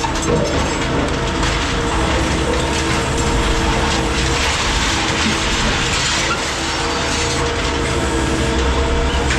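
Heavy scrap-handling machinery running steadily, a constant mechanical hum with a few steady tones and a rattling, clattering texture over it.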